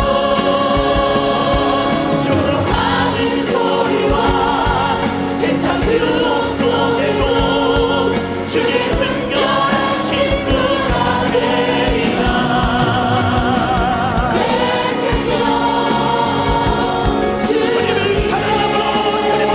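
Church choir and congregation singing a Korean gospel hymn with vibrato, over a steady band accompaniment with drums.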